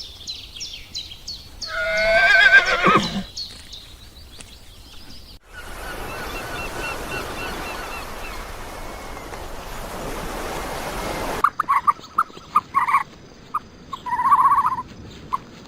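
A horse whinnies: one loud, wavering call lasting about a second and a half, about two seconds in. It is followed by a stretch of steady noise and then a series of short, sharp animal calls near the end.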